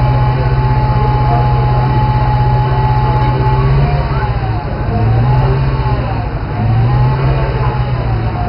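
Alfa Romeo 8C Spider's 4.7-litre V8 held at steady revs, then revved up and let fall twice in slow sweeps over the second half.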